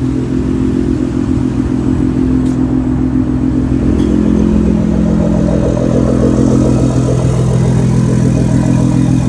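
Nissan GT-R's newly swapped engine running at a steady idle just after its first start, with a slight change in pitch about four seconds in.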